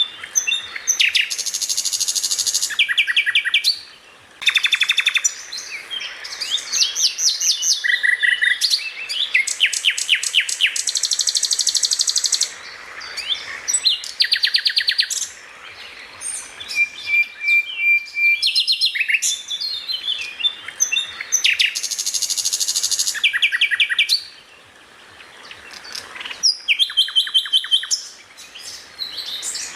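Songbird song of the masteran kind: fast, varied chirps, rapid trills and short whistled notes, high-pitched and nearly continuous, with two brief lulls.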